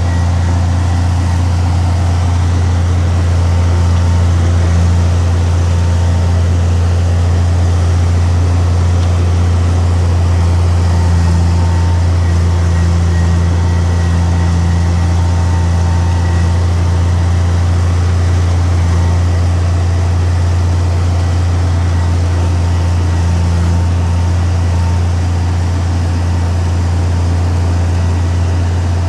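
Heavy diesel engine of earthmoving machinery running at a steady speed: a loud, unchanging low drone.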